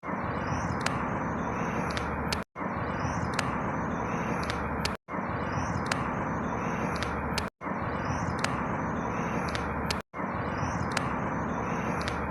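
Steady outdoor background noise from a short field recording, looped about every two and a half seconds with a brief cut to silence between repeats. The same faint ticks and high sounds come back identically in each repeat.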